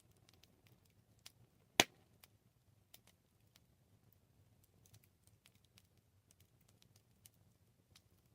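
Campfire crackling: scattered small sharp pops and ticks, with one loud pop about two seconds in, over a low steady rumble.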